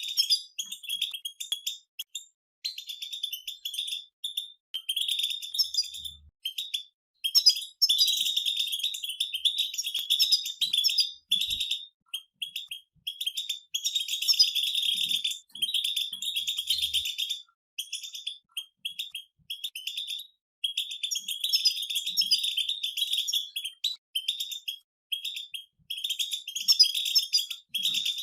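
Several European goldfinches singing together: a fast, tinkling twitter of rapid high notes, coming in phrases of one to a few seconds with short breaks between.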